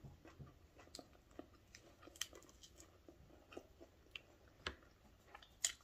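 Faint, close mouth sounds of a person chewing food, with small wet clicks and soft crunches spread through, and one sharper click near the end.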